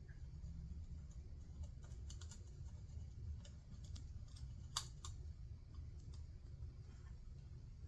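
Faint scattered small clicks and taps of handling at a workbench, with one sharper click about five seconds in, over a low steady hum.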